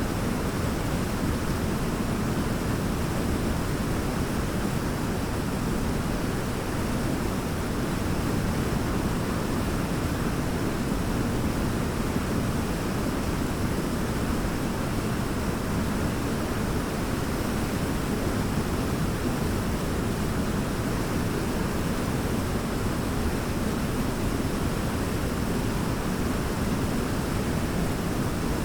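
Large waterfall: a steady, unbroken rush of falling water, heaviest in the low range.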